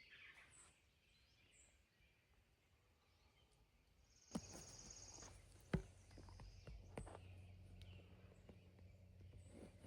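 Quiet outdoor ambience with faint bird chirps at the start. About four seconds in, a sharp click, then a low steady hum with a few knocks and taps, the loudest about a second and a half later.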